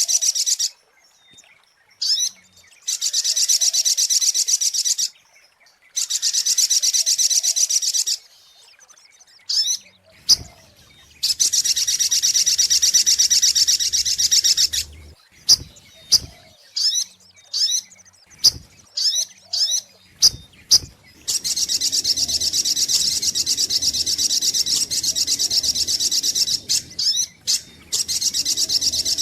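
Little spiderhunter (sogok ontong) song from a bird-lure recording: long, fast trills of high, rapidly repeated notes lasting two to five seconds each, separated by pauses. Midway through there is a run of short, sharp single chirps.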